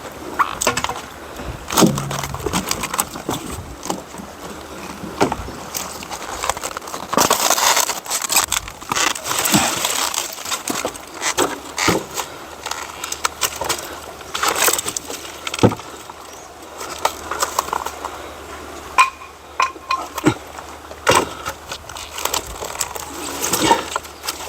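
Dry branches and brush crackling, snapping and knocking in irregular clatters as firewood is gathered and handled.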